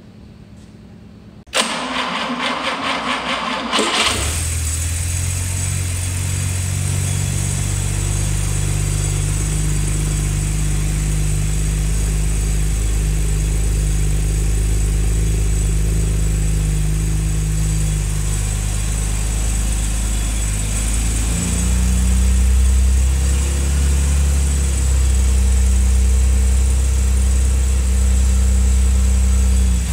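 Jaguar E-type 4.2-litre XK straight-six with triple SU carburettors cranked on the starter for about two seconds, then catching and starting right up and running steadily, its revs changing and getting a little louder about two-thirds of the way through. It runs smoothly but with a noisy exhaust leak from reused gaskets and a light timing chain rattle, which the owner puts down to the chain not being fully oiled up yet.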